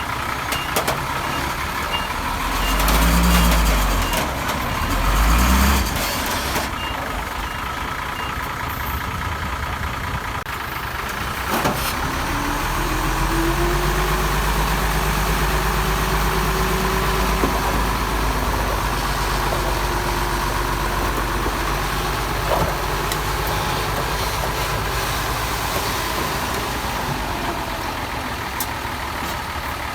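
A dump truck's reversing alarm beeps steadily over running diesel machinery for the first eight seconds or so, with two louder low rumbles around three and five seconds in. About twelve seconds in, a heavy diesel engine revs up and then runs steadily.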